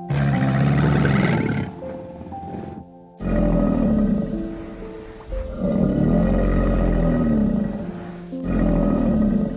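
Tiger roaring four times in long, deep roars with short pauses between, over background music.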